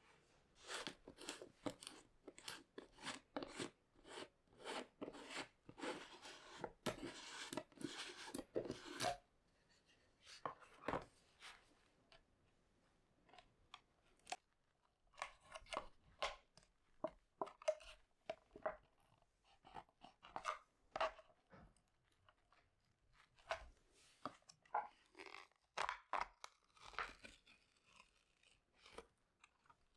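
Close handling sounds: a quick run of short crunching and tearing noises for the first nine seconds or so, then sparser, scattered ones.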